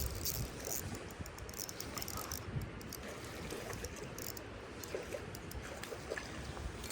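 Steady rush of running creek water with a low rumble and scattered faint clicks and ticks.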